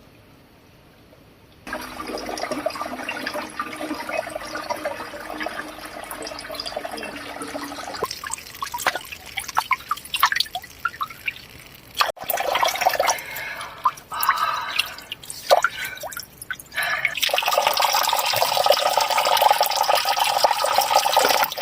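Spring water running and pouring into a container. It starts about two seconds in, breaks into separate splashes around the middle, and runs steadily again from the last few seconds.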